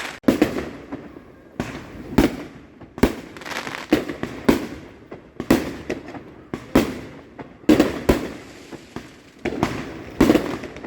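Fireworks going off: a run of sharp bangs, about one a second, each trailing off in a rolling echo.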